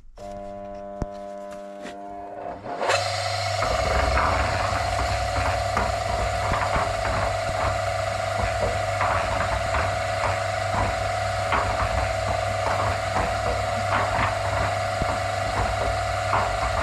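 Single-phase electric motor of a belt-driven concrete mixer switched on: it hums for about three seconds before it gets the loaded drum turning, then runs steadily with a low rumble and scattered rattling clicks. The slow start under load is the sign of a start capacitor too small for the load, which the owner puts down to the 16 µF condenser.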